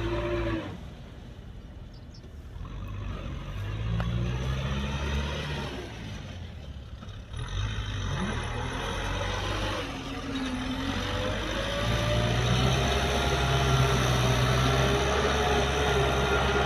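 Kubota M6040SU tractor's diesel engine working, its revs falling and rising. The engine sound drops away briefly twice, then runs steadier and louder near the end.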